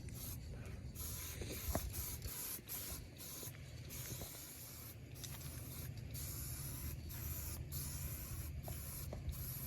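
Adhesion promoter being sprayed onto plastic fenders before paint: a steady hiss of spray, cut by many brief pauses, over a low steady hum.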